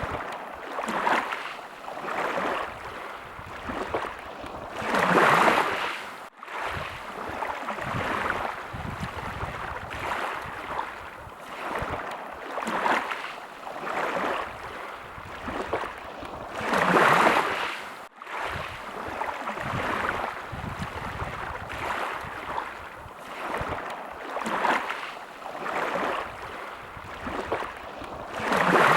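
Small sea waves lapping at the shore in a steady rhythm of swells, with a bigger wave washing in three times, about twelve seconds apart.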